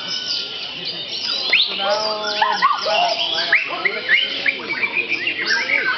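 White-rumped shama (murai batu) singing in full contest song, a fast, varied run of whistles, rising slurs and chirps, overlapped by other contest birds singing at the same time.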